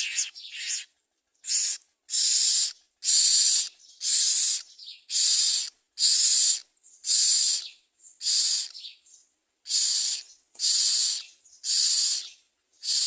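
Common myna nestlings begging: a run of harsh, hissing rasps, about one a second.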